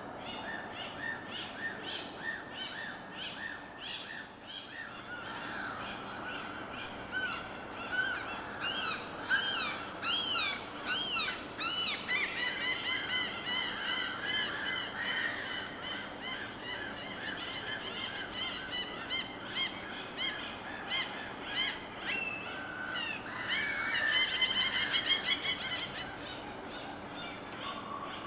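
Several birds calling at once over a steady background wash. A run of short repeated calls gives way, about a third of the way in, to louder calls sweeping up and down in pitch, followed by fast, chattering series of notes.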